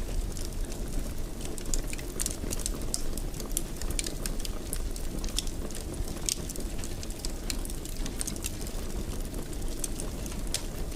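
Wood fire burning in a fireplace: a steady low rumble of flames with frequent small crackles and snaps scattered throughout.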